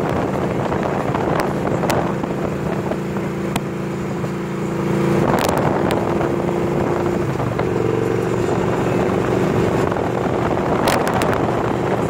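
2014 Victory Cross Country's V-twin running at highway cruising speed through new exhaust pipes, with wind noise on the microphone. The engine note changes about five seconds in and again a couple of seconds later.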